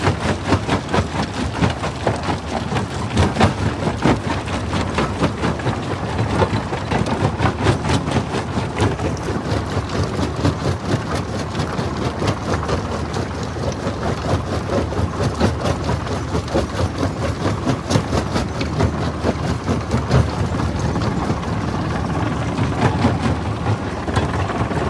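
Jaw crusher running: a steady low machine rumble under a dense, irregular crackle of stones cracking and grinding between the jaws.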